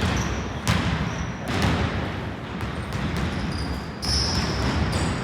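Basketball bouncing on a hardwood gym court during play, a few separate hard bounces, with brief high squeaks of sneakers.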